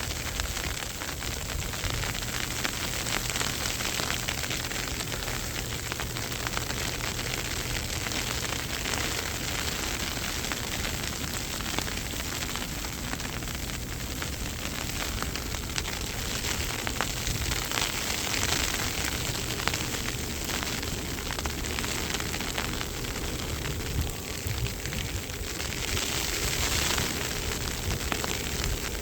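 Steady hiss of a snowstorm outdoors, blowing snow and wind against the microphone, with a fine, dense crackle.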